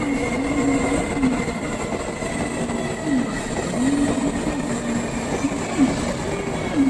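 N700 series 7000 Shinkansen train pulling into the platform: a steady rolling, rushing noise with a low tone that keeps rising and falling.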